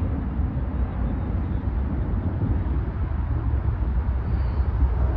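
Steady low rumble of an Embraer E175's twin turbofan jet engines at takeoff power as the jet departs.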